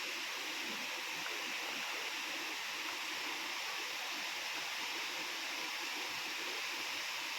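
River water running over rocks, a steady, even rushing noise.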